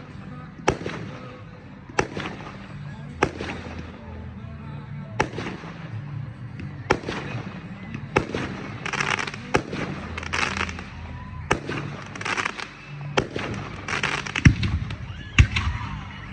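Fireworks display: aerial shells bursting with sharp bangs about every one to one and a half seconds, several in the second half followed by crackling.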